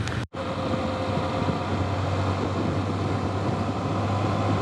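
A small 150cc motorcycle engine running steadily while riding, with an even rush of wind noise. Near the start the sound drops out for a moment.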